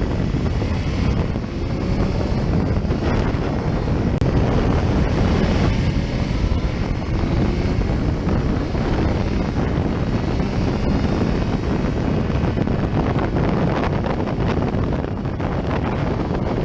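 Wind rushing and buffeting over the microphone of a camera on a moving motorcycle, with the bike's engine running underneath at riding speed.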